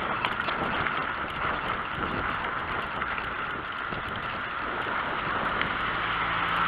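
Steady rushing noise of riding a bicycle along a road: wind and road noise on a head-mounted camera's microphone.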